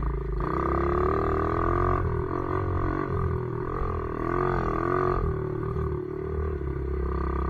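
Pit bike engine running under throttle while being ridden, its pitch wavering gently up and down with the revs.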